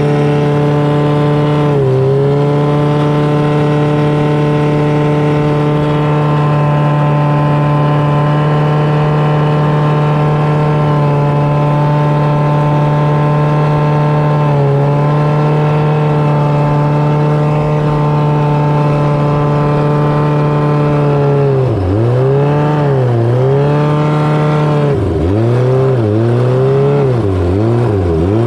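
600cc jet boat engine running at a steady pitch with two brief dips. Near the end the revs drop and rise several times in quick succession as the throttle is backed off and opened again.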